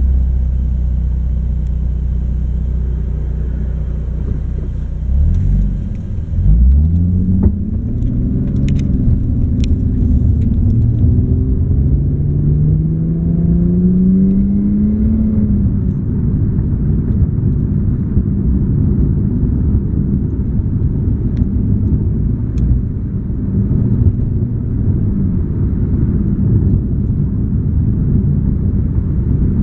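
Infiniti G37 sedan's V6 and aftermarket exhaust (Berk high-flow cats, Top Speed Y-back) heard from inside the cabin with the windows up: a steady low cruising drone, then from about six seconds in the engine note rises steadily for about eight seconds under acceleration before settling back into a steady drone with road noise.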